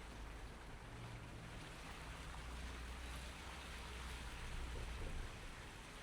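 A car driving on a wet, snow-covered city street: steady hiss of tyres through slush over a low engine hum.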